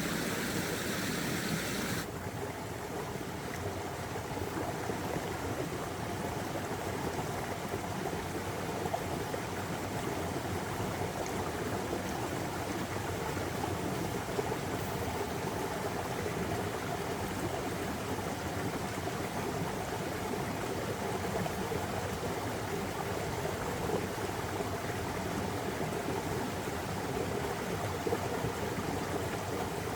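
Stream water running and babbling steadily. A brighter hiss in the upper range cuts off abruptly about two seconds in, leaving the lower, fuller rush of the water.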